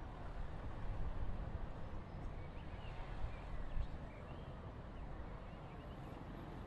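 Quiet background ambience: a steady low rumble, with a few faint, short high chirps between about two and four seconds in.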